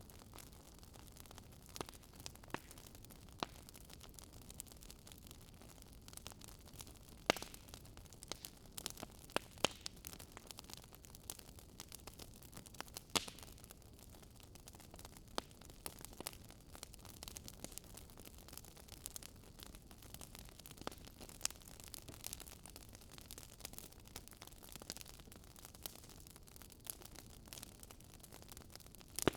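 Wood fire crackling softly, with irregular small pops and snaps of burning logs and a few louder pops, over a faint low hiss.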